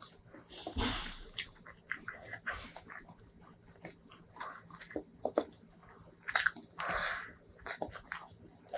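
Close-miked eating sounds: wet chewing and mouth smacks of a mouthful of rice and curry, mixed with soft squishing as fingers knead the rice and curry together. There are many short clicks and smacks, with a longer swish about a second in and again near the end.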